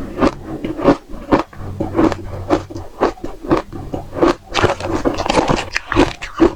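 Close-up bites and crunches of dry, frosty frozen matcha ice, about two sharp cracks a second.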